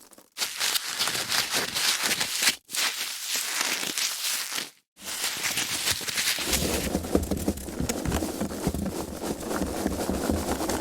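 Foam packaging being handled, rubbed and squeezed, giving a dense crackling and creaking. It comes in separate takes, broken by short silences about two and a half and five seconds in, with heavier, fuller handling from about six and a half seconds.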